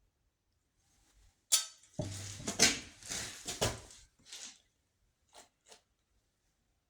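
Small stones being handled, clicking and scraping against each other or a hard surface: one sharp click, a busy rattle lasting about two seconds, then a few single clicks.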